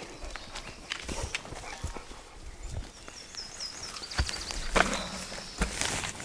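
Footsteps crunching irregularly over rough ground, getting louder toward the end. A faint run of high chirps comes in about three seconds in.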